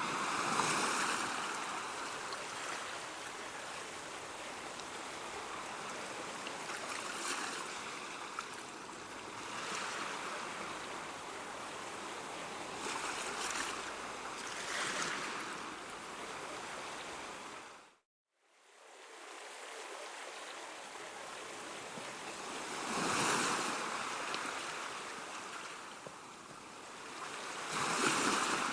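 Ocean surf: waves breaking and washing in, swelling up every few seconds. About two-thirds of the way through the sound cuts out suddenly for a moment, then fades back in.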